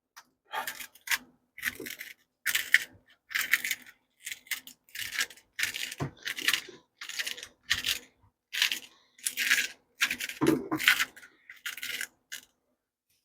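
Salt being put on top of protein cookie dough balls: a run of short, gritty rasps, roughly one a second.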